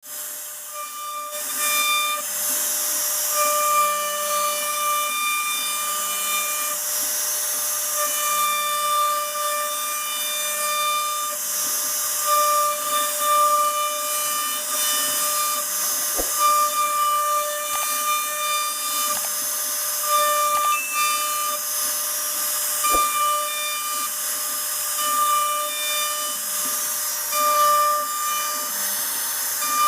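CNC router cutting a wood panel: a steady hiss from the spindle and cutter, with a whine that cuts in and out every second or two as the machine moves, and a few sharp clicks.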